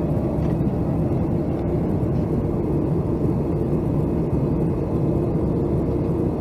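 Boeing 757-200 cabin noise heard from inside: a steady low drone of the engines and the rush of air past the fuselage as the jet flies its approach.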